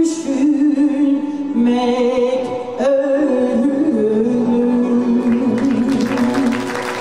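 Female soloist singing the closing phrase of a Turkish folk song over instrumental accompaniment, ending on a long held note. Audience applause starts to rise near the end.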